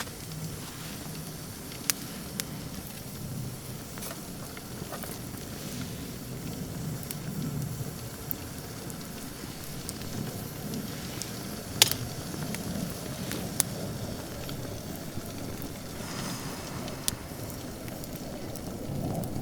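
Wood campfire burning with a steady low rush and scattered crackles, and one sharp, loud pop about twelve seconds in.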